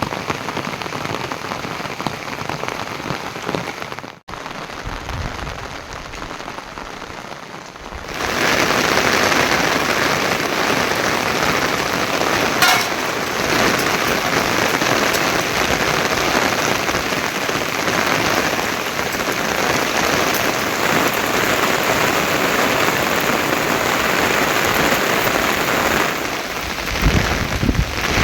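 Heavy monsoon rain falling steadily, with a brief break about four seconds in, then louder, denser rain from about eight seconds on.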